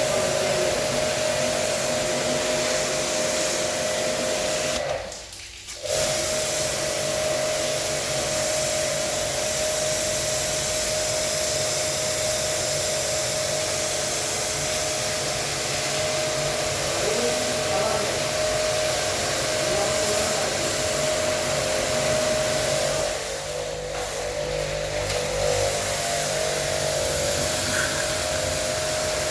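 Small electric pressure washer running, its motor humming steadily under the hiss of the water spray as it washes an air-conditioner unit. It stops for about a second around five seconds in and dips again briefly later on.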